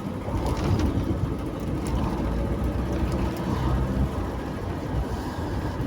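Car driving: steady engine and road rumble heard from inside the cabin.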